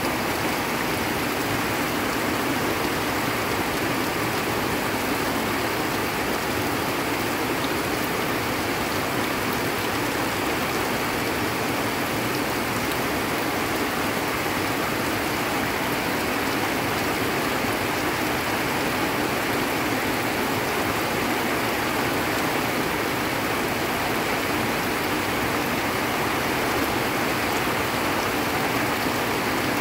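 Torrential rain pouring steadily onto leaves and ground, with muddy runoff water rushing down the slope.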